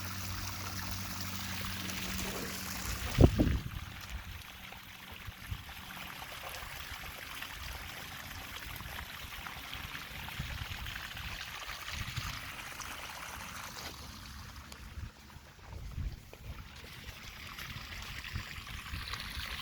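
Steady hiss of steady rain falling on the ground. A loud thump comes about three seconds in, and a few softer thuds follow later.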